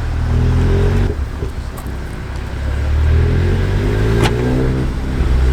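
Car engine accelerating hard: the pitch climbs, drops briefly about a second in as it shifts, then climbs again for a couple of seconds.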